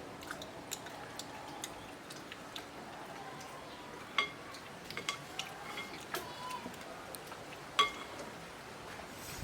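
Cutlery clinking against a dish while eating: irregular light clicks, a few of them ringing briefly, the loudest clinks about four seconds in and near eight seconds in.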